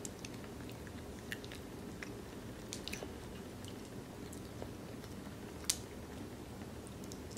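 A child chewing crab meat with her mouth, close to the microphone, with scattered small wet clicks and one sharper click a little over halfway through.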